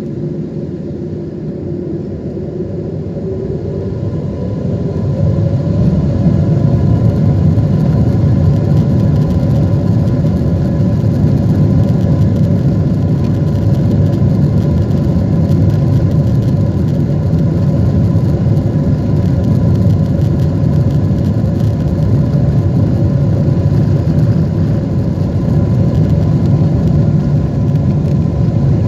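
Boeing 747 jet engines heard from inside the cabin. Over the first six seconds they grow louder, as thrust builds for takeoff, then hold a steady, loud rumble with a faint whine.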